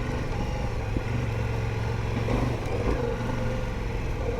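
Ducati Multistrada V4 Rally's V4 engine running steadily under way, with brief dips in the note about two and three seconds in.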